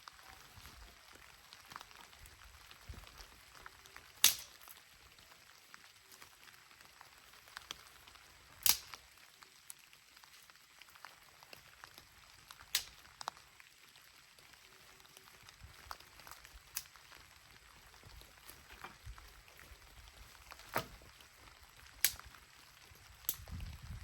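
Wood fire crackling: about a dozen sharp, irregular pops over a faint hiss, the loudest about four and nine seconds in.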